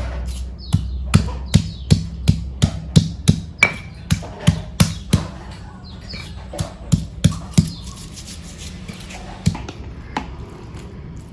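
Knife chopping on a cutting board in a steady rhythm of about two to three strokes a second. It stops after about seven seconds, and two single knocks follow near the end.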